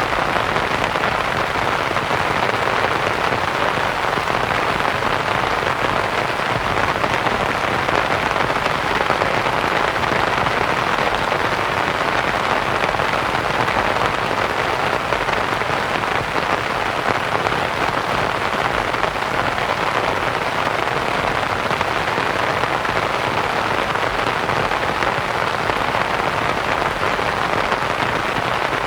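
Steady rain pattering on a canvas tent, mixed with a soft, even white noise.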